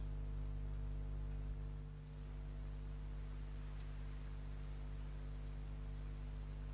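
Steady low electrical hum, with a few faint, short, high bird chirps over it.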